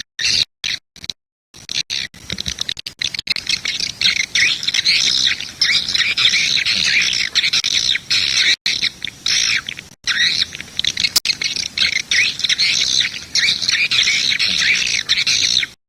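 Swiftlet lure-call recording playing: dense, rapid high-pitched chirping and twittering of swiftlets. There are a few brief dropouts in the first couple of seconds, and the sound cuts off suddenly just before the end.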